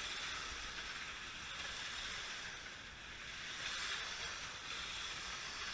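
Slot cars running laps on the track: a steady high whirring of their small electric motors, dipping slightly and swelling again as the cars go round.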